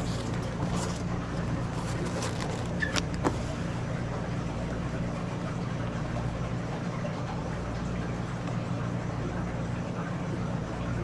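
Car engine idling steadily, with a few light clicks about two to three seconds in.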